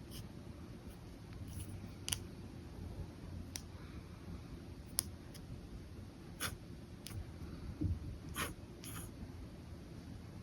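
Pen nib on paper: short, scattered sketching strokes, about eight in ten seconds, over a low steady hum.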